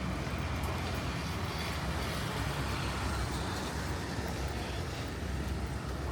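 Steady city street traffic noise: a continuous low rumble of passing cars with no distinct single event.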